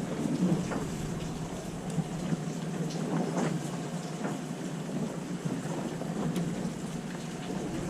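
Boat ambience: a steady low engine hum under a splashing, hissing wash of water, with scattered small knocks.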